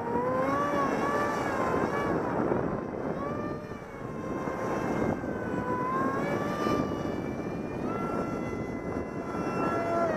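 Electric model-aircraft motor and propeller whining, a 450-size 2200 kV brushless outrunner swinging a 6x4 prop, its pitch rising and falling constantly as the throttle is worked to hold the jet in a hover. Wind rushes across the microphone underneath.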